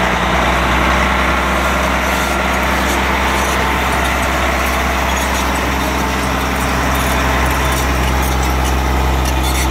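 Engine of a tracked heavy-equipment machine running steadily under a constant load, with a deep, even hum.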